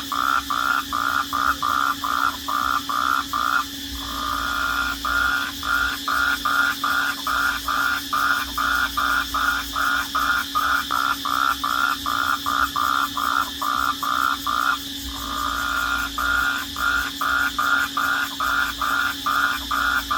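Night-time chorus of rhythmic chirping calls, about three a second, that twice runs together into a steady trill for a second or so. A steady drone sits underneath.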